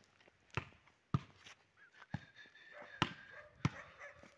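About six sharp, irregularly spaced knocks or thumps, with a faint thin steady tone coming in about halfway through.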